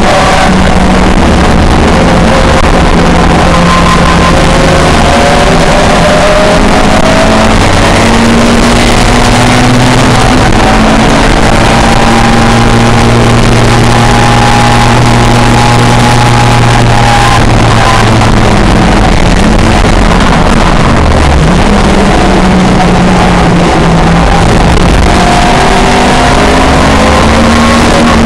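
Pre-1966 touring race car engine running hard and very loud, its pitch rising and falling as it revs through the gears.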